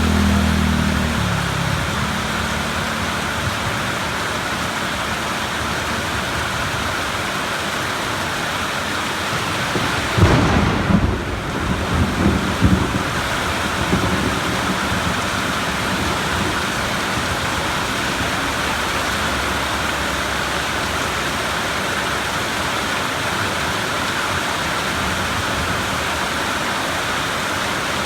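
Steady heavy rain, with a rumble of thunder with a few sharp cracks about ten seconds in that dies away within about four seconds. A low hum fades out in the first second or two.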